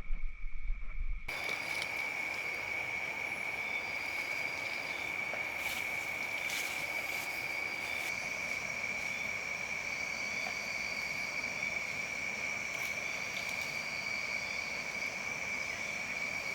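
Steady insect chorus: a continuous high-pitched trill with a fainter, higher band over soft hiss. It begins about a second in, where a louder sound with a low hum cuts off abruptly.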